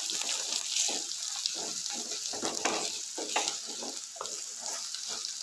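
Onion and spice masala frying in oil in a kadai, sizzling steadily, while a wooden spatula stirs and scrapes it in quick repeated strokes, about two or three a second. This is the roasting (bhuna) of chilli powder and turmeric into the onions.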